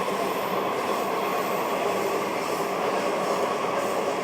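Washington Metro subway car running between stations, heard from inside the car: a steady rumble and rail noise with an even level.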